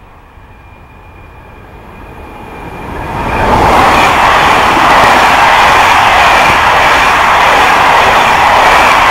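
Trains running through a station at speed: an SNCF Fret Prima electric locomotive hauling tank wagons, with a Corail passenger train on the adjacent track. A faint steady whine at first, then wheel and rail noise builds over about three seconds into a loud, steady rushing.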